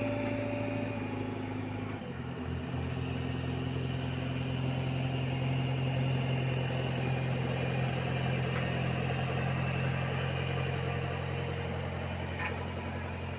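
Diesel engine of road-paving heavy equipment running steadily; its note shifts about two seconds in, then holds.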